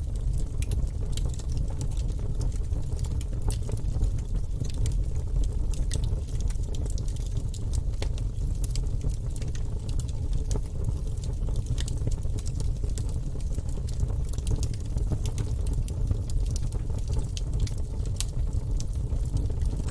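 Wood fire burning in a fireplace: a steady low rumble of flame, dotted with frequent sharp crackles and pops from the burning logs.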